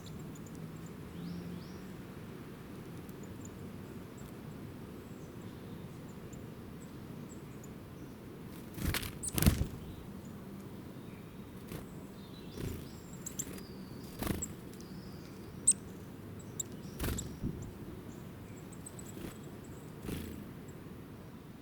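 Small birds chirping faintly in short, high chirps over a steady low outdoor rumble, with several sharp knocks or taps, the loudest a pair about nine seconds in.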